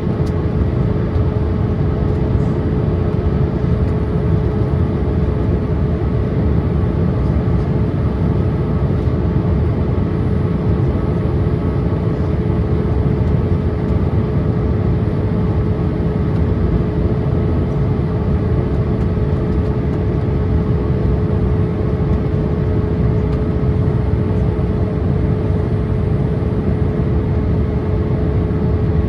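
Steady cabin noise inside a Boeing 787-8 airliner on approach: a low engine and airflow rumble with a constant mid-pitched hum over it.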